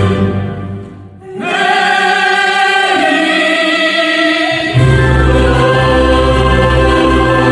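Music with a choir singing long held notes. It fades nearly to nothing about a second in, swells back, and a deep bass comes in about halfway through.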